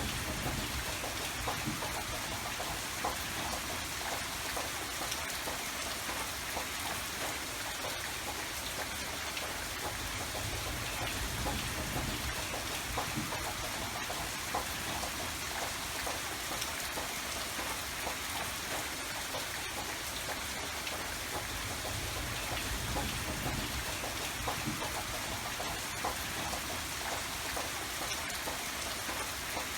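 Steady rain falling, a dense patter of drops on a surface, with a soft low rumble that swells and fades now and then.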